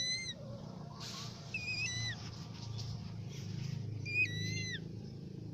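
Pet bird calling: short whistled calls that bend in pitch, heard at the start, twice about a second and a half in and once more about four seconds in, over a steady low hum.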